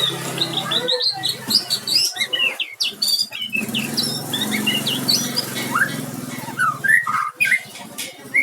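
White-rumped shama (murai batu) singing a fast, varied run of short whistled and chirping notes, rising and falling in pitch.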